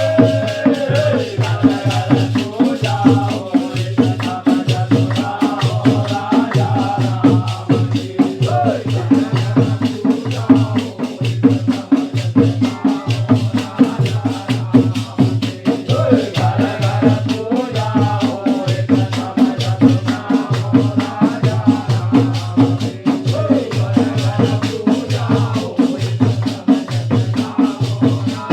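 Holi faag folk song: voices singing over a steady, repeating drum beat and constant rattling, jingling percussion.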